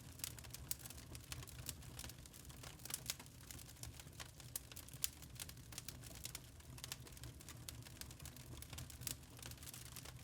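Wood fire crackling in a fireplace: many small irregular pops and snaps, a few louder ones, over a low steady rumble of the burning.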